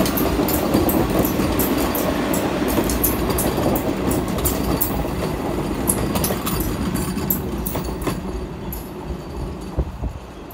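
Vande Bharat Express electric multiple-unit trainset running past close by: a steady rumble of wheels on rail with many sharp clicks, fading from about eight seconds in.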